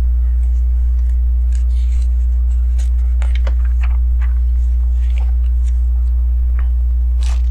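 Small plastic LEGO pieces clicking lightly and irregularly as they are handled and pressed together, over a steady low electrical hum.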